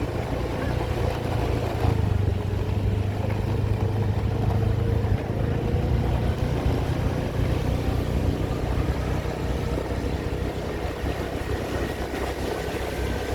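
A vehicle engine running steadily while moving along a road, with a low hum and rushing noise.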